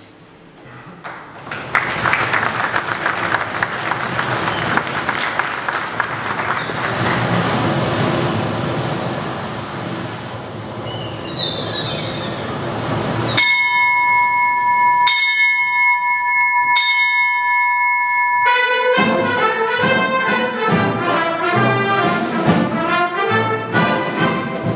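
Orchestral introduction to the song, played by a military wind orchestra with bells. A dense, noisy stretch of sound comes first. About 13 seconds in, a few held, ringing bell-like tones follow, and from about 18 seconds the full brass band plays in a steady rhythm.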